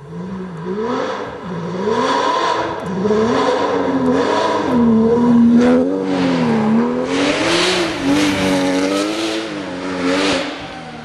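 Porsche 911 GT3 rally car's flat-six engine revving hard, its revs rising and falling quickly, growing louder over the first few seconds and loudest about seven to nine seconds in as the car comes close.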